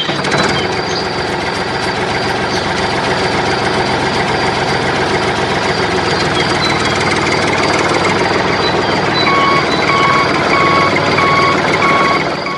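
Engine running steadily. In the last few seconds a reversing-style beep repeats about twice a second.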